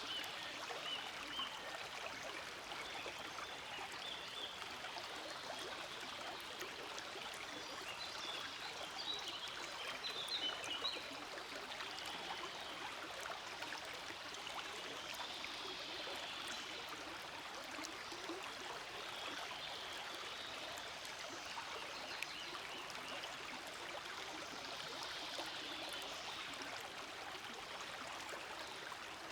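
Forest stream flowing steadily over rocks, a continuous gentle babbling and rushing of water.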